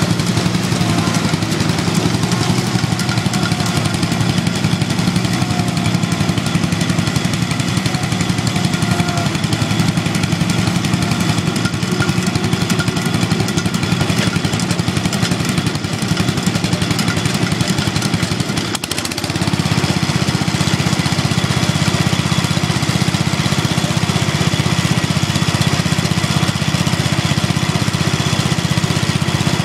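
Garden tractor engines running steadily. About two-thirds of the way through the sound dips briefly, then settles into a fuller, steadier hum.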